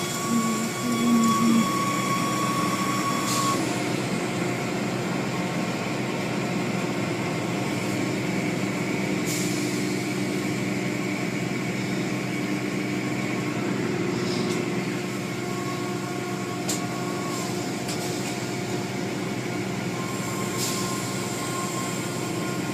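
Automatic car wash machinery running steadily, heard from inside the car: a constant mechanical hum and drone with a thin high whine, and a few brief clicks.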